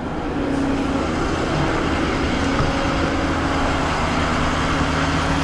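Vehicle engine running steadily: a constant droning hum with a few level low tones under an even rush of noise.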